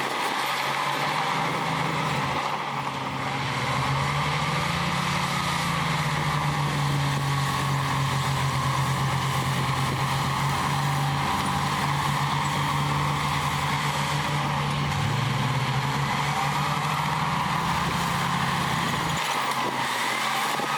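Heavy diesel engine of earthmoving equipment running continuously under load. Its note rises and falls several times as the throttle changes, over a fainter wavering whine.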